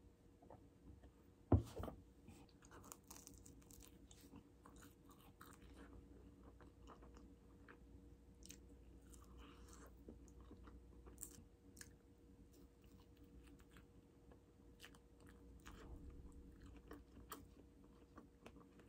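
Faint close-up eating sounds: a person biting and chewing bread, with small scattered clicks, and one sharp knock on the table about a second and a half in.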